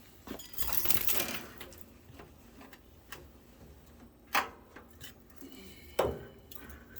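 Handling noise as a phone is set in place: a scraping rustle about a second in, then a few clicks and two sharp knocks.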